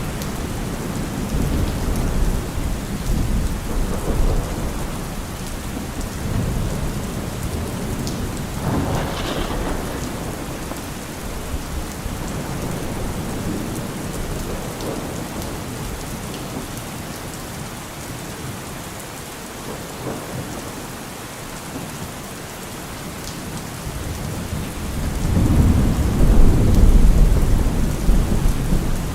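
Heavy rain falling on a car roof, with thunder rumbling low. A louder, longer roll of thunder swells about 25 seconds in.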